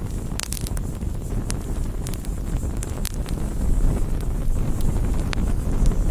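Wood campfire burning: a steady low rumble of the fire with scattered sharp crackles and pops, several close together about half a second in and single ones every second or so after.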